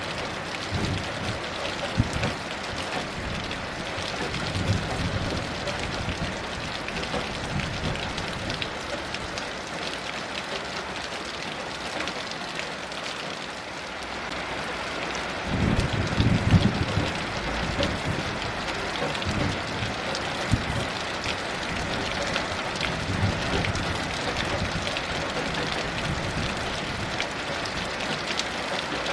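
Heavy rain falling steadily, with low, distant thunder rumbling now and then; the loudest rumble comes about sixteen seconds in.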